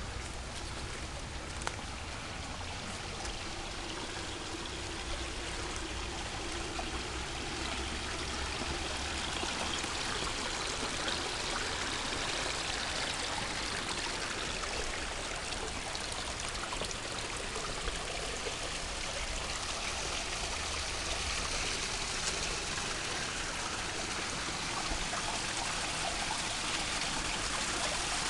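A stream of running water, a steady rushing and trickling that grows gradually louder.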